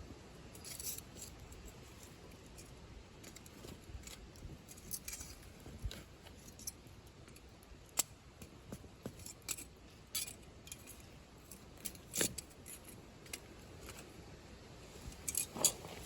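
Wood campfire crackling, with irregular sharp snaps and pops, a few of them louder.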